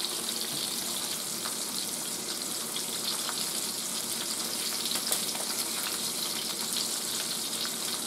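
Breaded razor clam strips frying in hot peanut oil in an electric fry pan set to about 400 degrees: a steady sizzle with scattered faint crackles.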